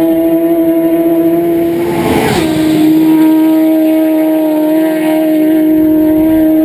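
Racing motorcycle engine at high revs, held at a steady high pitch; about two seconds in a bike rushes past and the pitch drops slightly, then holds steady again.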